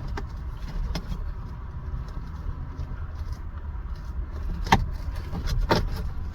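Plastic dome light cover being wiggled and pried out of its housing by hand, giving a few sharp clicks, over a steady low rumble.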